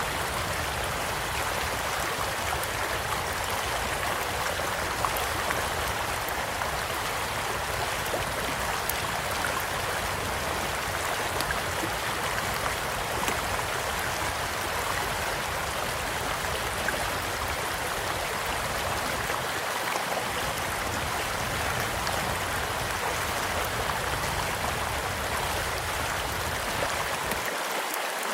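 Gentle stream flowing steadily, with sparse small pops and crackles from a campfire.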